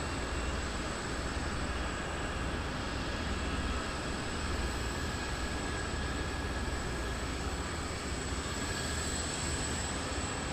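Jet airliner engines running: a steady rumble and hiss with a faint, thin high whine held throughout.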